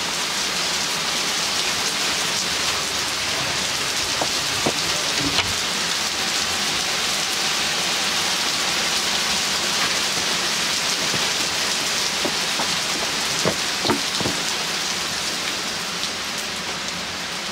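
Heavy rain pouring steadily in a storm, pattering on lawn, plants and pavement. A few sharp ticks stand out, about five seconds in and again near fourteen seconds.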